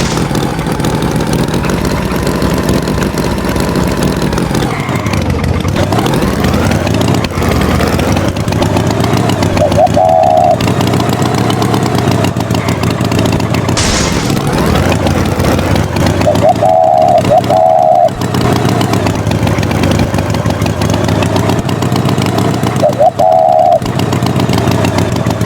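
Tractor engine running steadily, its pitch sagging and rising again a few times, with short repeated beeping tones about ten seconds in, around seventeen seconds and near the end.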